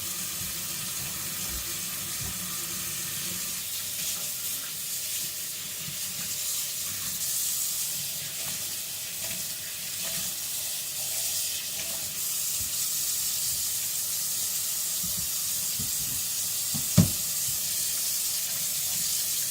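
Tap water running steadily, rinsing soap and grit off a whetstone, with a single knock about three seconds before the end; the water cuts off suddenly at the end.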